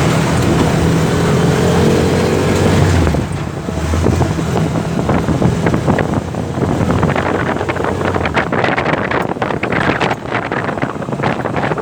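Motor tricycle engine running on the move, with wind buffeting the microphone. The steady engine hum is clearest for the first three seconds, then rushing wind noise and crackling take over.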